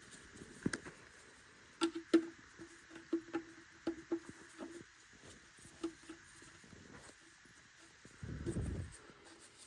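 Irregular light clicks and taps as a new plastic oil drain plug is handled and threaded into the oil pan, with a short low rumble near the end.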